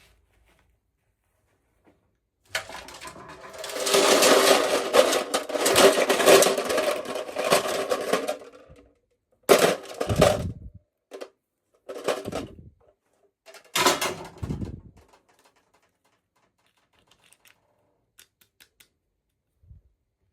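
Packaging being opened by hand: dense crinkling and rustling for about six seconds, then a few shorter bursts of crinkling and handling noise, then faint ticks.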